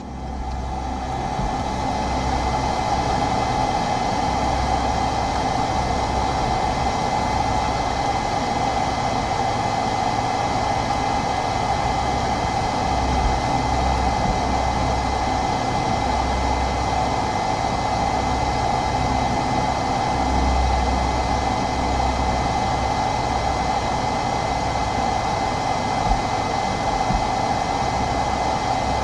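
Steady road and engine noise inside a moving car, with a low rumble that swells and fades every few seconds.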